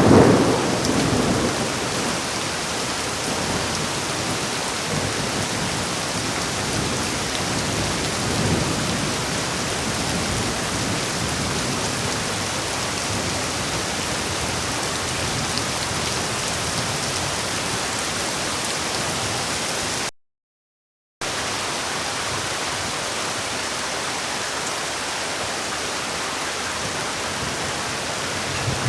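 Heavy, steady rain, with the end of a thunderclap fading over the first second or two and a smaller rumble of thunder about eight seconds in. About twenty seconds in, the sound cuts out completely for a second, then the rain resumes.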